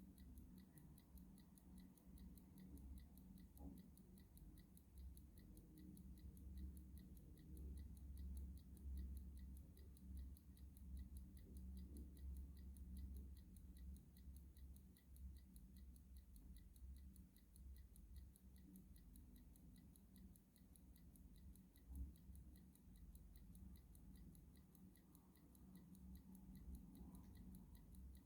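Clock ticking faintly at an even, steady rate, with a low rumble underneath.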